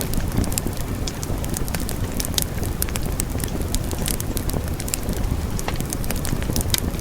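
Wood fire in a fireplace crackling steadily, with many quick sharp pops and snaps over a low rumble of burning.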